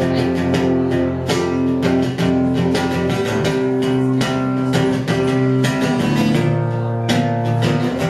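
Guitar strumming chords in a steady rhythm: the instrumental intro of a live song, before any singing.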